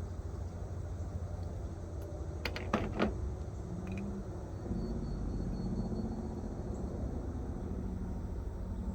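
Three or four sharp clicks and knocks as plumbing fittings are handled and fitted together, over a steady low rumble.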